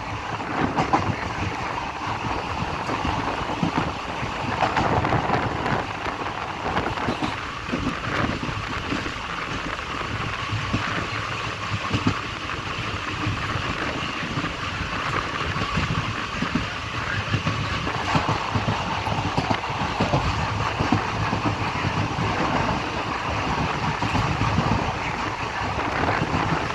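Passenger train on the move, heard from aboard: a steady rattle of the coach and a run of clicks and knocks from the wheels on the rails.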